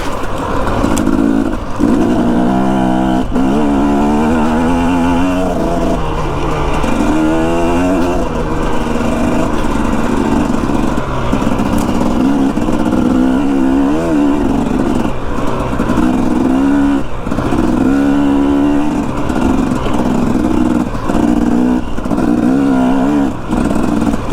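Dirt bike engine running under riding, revving up and dropping back again and again, its pitch climbing and falling every second or two as the throttle opens and closes through the gears.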